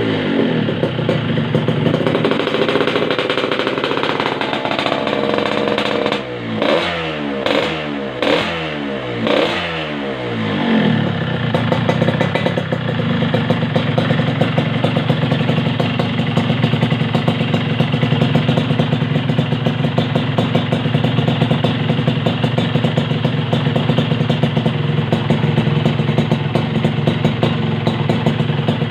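Yamaha RX-King two-stroke single-cylinder engine breathing through a competition-style racing exhaust, revved in a string of quick throttle blips during the first ten seconds or so, then settling to a steady idle.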